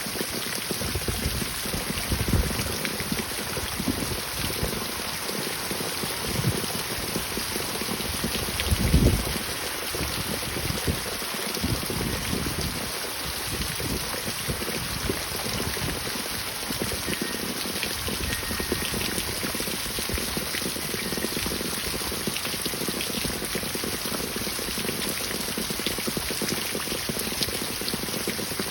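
Steady heavy rain falling, with brief low rumbles, the strongest about nine seconds in.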